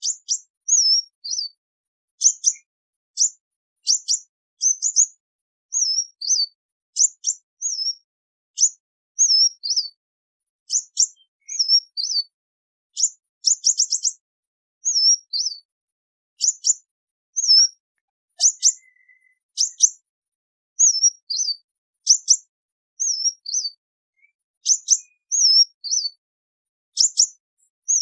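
Sunbird giving its flock call: short, high chirps that slur downward, in groups of two or three, repeated about once a second, with a quick run of several notes about halfway through.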